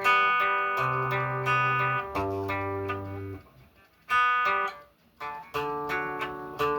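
Guitar chords played one after another, each left to ring for about a second, with two short breaks in the middle as the fretting hand moves to the next chord shape.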